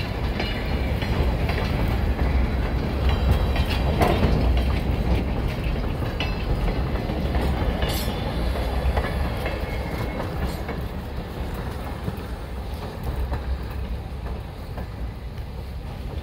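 Freight cars and a caboose rolling past close by: a steady low rumble of steel wheels on rail, with scattered clicks and clacks over the rail joints. The sound fades over the last few seconds as the end of the train goes by.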